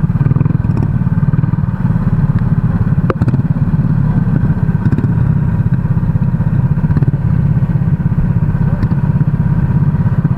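Racing kart engine running steadily under load, a dense fast pulsing sound, with a single sharp click about three seconds in.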